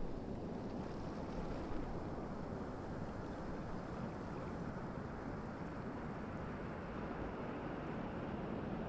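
Ocean waves washing steadily on the shore as a continuous surf noise, with no single break standing out.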